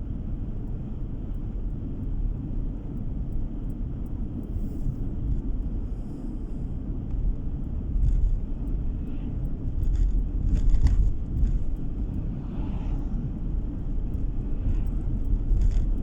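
Car interior road noise while driving: a steady low rumble of tyres and engine, with a few faint clicks about halfway through.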